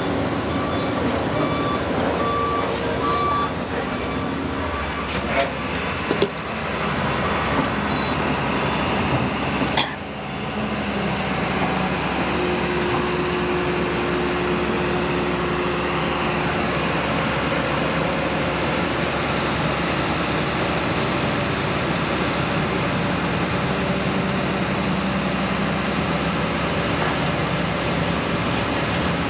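Heavy diesel machinery running steadily. A repeating beep sounds for the first few seconds, and a few sharp knocks come about six and ten seconds in.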